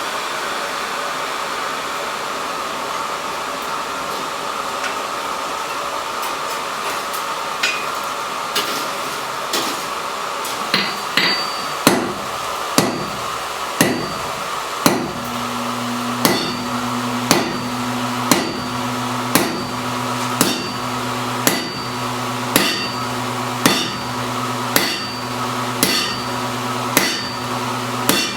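Blacksmith's hammer striking metal on an anvil: a few scattered blows at first, then a steady rhythm of about one blow a second, each with a short high ring. A steady rushing noise runs underneath, and a low hum joins about halfway through.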